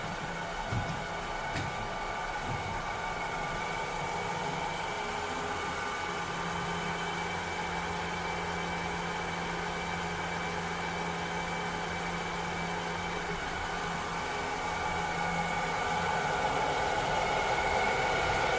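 Cleaning robot running: a steady motor whir with several held tones. There are a couple of light knocks about a second in, and a low hum joins for several seconds in the middle. The whole sound grows slightly louder near the end.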